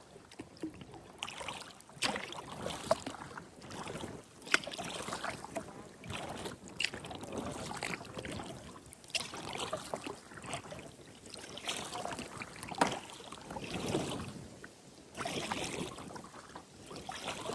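Kayak paddle strokes, the blades dipping and splashing in the water about every one to two seconds, with a few sharp knocks.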